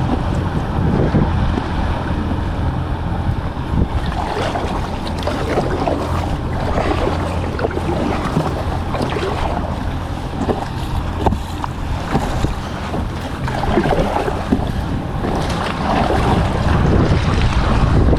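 Kayak paddle strokes splashing in the water at an irregular pace, over steady wind noise on the microphone.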